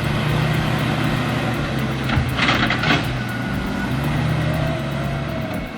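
Wheel loader's diesel engine running steadily, with a brief hissing burst about two and a half seconds in.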